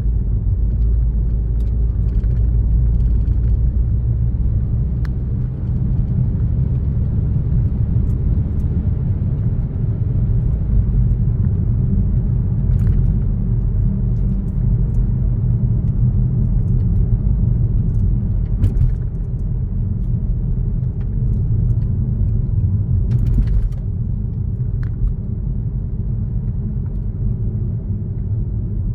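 Car driving on a road: a steady low rumble of engine and tyre noise, with a few faint clicks.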